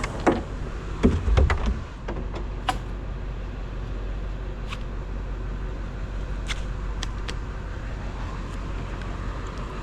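Bucket truck's engine running steadily, with scattered sharp clicks and a few heavier knocks about a second in.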